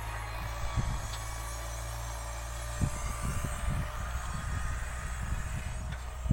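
OX 45 tractor's engine running steadily with a low drone, with irregular low thumps over it from about three seconds in.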